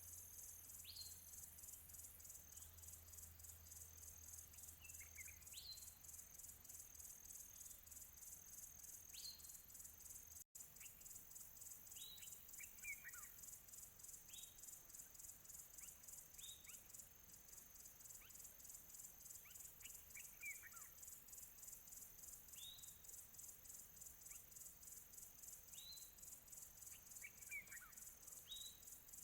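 Faint outdoor ambience: a steady, high-pitched pulsing insect chorus, with birds giving short, single chirps, some rising and some falling, every one to three seconds. The sound cuts out for an instant about a third of the way through.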